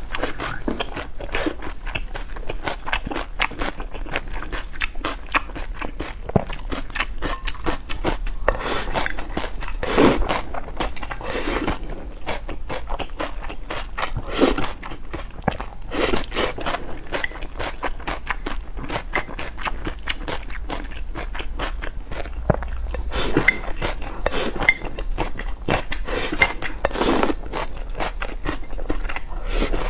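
A person eating spicy noodle soup close to the microphone: continuous chewing and mouth clicks, with a few louder swells of eating noise along the way.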